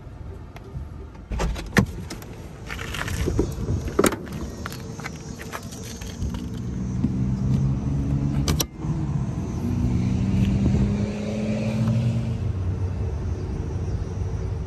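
Several sharp clicks and knocks, then a vehicle's low hum that shifts in pitch through the middle and latter part.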